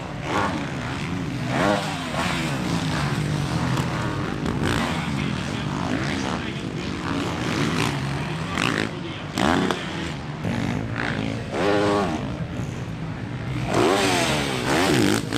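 Motocross dirt bike engines running hard, their pitch rising and falling repeatedly as the throttle is worked, loudest near the end.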